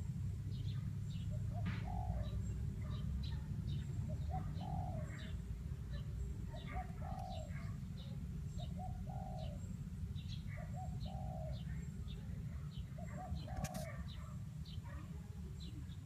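Outdoor birdsong: a low two-part call repeats about every two seconds, with many short high chirps from other birds, over a steady low rumble. A single sharp click comes late on.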